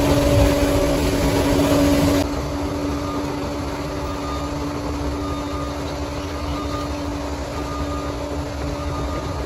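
Diesel engine of heavy earthmoving equipment running with a steady hum. About two seconds in the sound drops abruptly to a quieter level. From about halfway, a backup alarm beeps faintly and repeatedly.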